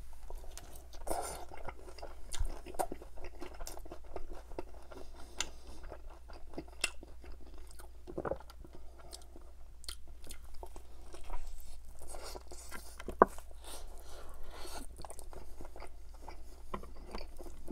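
Close-up chewing and crunching of a crispy fried chicken drumstick in butter chicken sauce: bites into the crisp skin, then irregular crackles and wet mouth clicks, with one sharp click about two-thirds of the way through.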